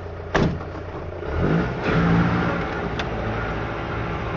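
Car engine heard from inside the cabin, running low and steady, then revving up about a second in and holding at higher revs. A short, sharp click comes just before the revving.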